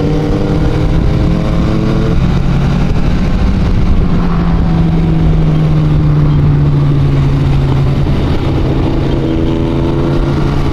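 Motorcycle engine running steadily at cruising speed, rising slightly in pitch in the first couple of seconds, under a heavy rush of wind noise.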